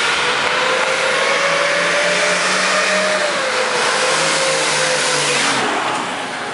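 The 1959 Ford F-100's six-cylinder 4.2 L turbo diesel running hard, a steady whine riding over the engine noise, then easing off about six seconds in.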